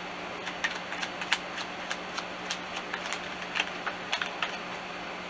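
Tarot cards being handled and laid down: a run of light, irregular clicks and snaps, a few a second, over a steady low room hum.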